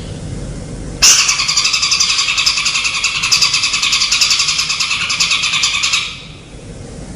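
A songbird's rapid, buzzing chatter, used as masteran song. It starts sharply about a second in, runs for about five seconds as a fast rattling trill, and fades out.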